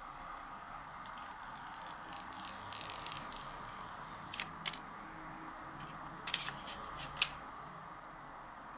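Packaging being handled during a phone unboxing: a crinkly, crackling rustle for about three seconds, then several sharp clicks, the loudest near the end.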